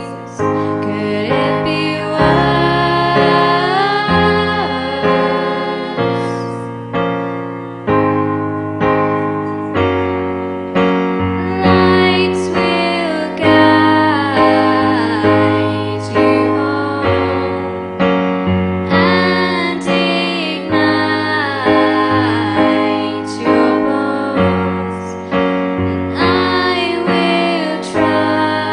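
A song played on piano, with chords struck about once a second and left to ring, and a woman singing over them.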